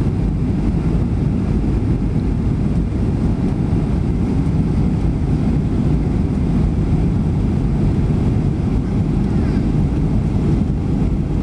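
Steady cabin noise of an airliner in flight, a constant low rumble of engines and rushing air heard from inside the passenger cabin, with no change in level.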